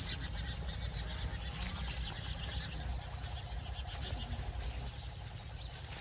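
Outdoor village ambience: many short bird chirps and calls repeating throughout, over a steady low rumble.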